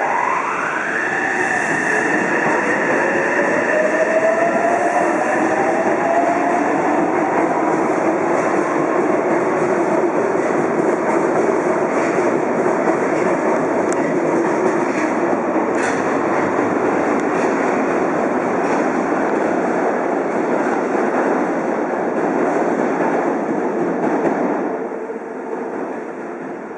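Yokohama Subway Blue Line electric train pulling out of the station. Its inverter and traction-motor whine climbs in pitch as it accelerates over the running noise of its wheels on the rails, then the sound fades away as it leaves.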